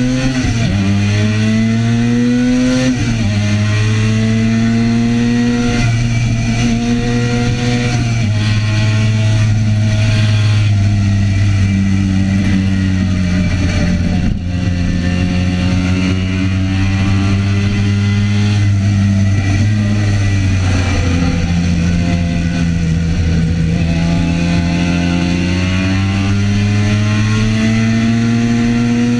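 Classic racing motorcycle engine heard from on board at racing speed, running hard. Its note climbs through the revs and drops at each gear change, several times over.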